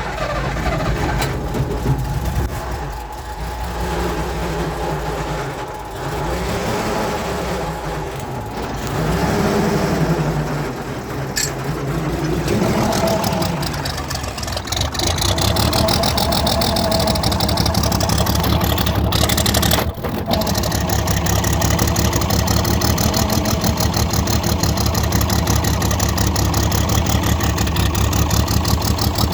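Ursus 1201 tractor's six-cylinder diesel engine running just after a cold start at about −15 °C. Its revs rise and fall several times, then from about halfway it settles into a steady idle.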